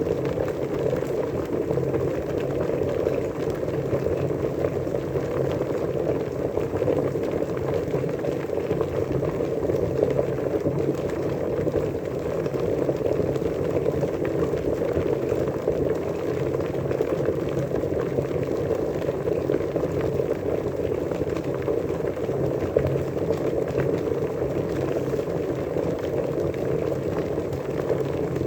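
Water at a steady rolling boil, a continuous bubbling and gurgling that holds even throughout.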